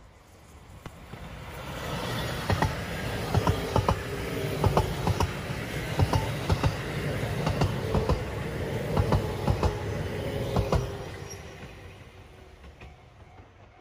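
JR Hokkaido 721 series electric train passing close by at speed: a rising rush of running noise with sharp wheel clacks over the rail joints, then fading away as it leaves.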